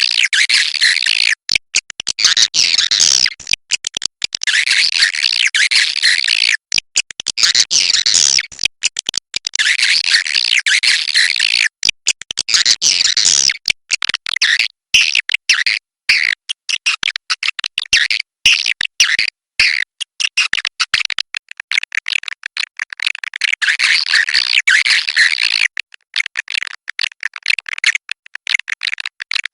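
Swiftlets chattering in a dense flock of high, rapid chirps and twitters: a swiftlet 'inap' (roosting) call recording of the kind played to draw swiftlets into a nest house. The chatter cuts out abruptly for brief moments many times, as in an edited loop.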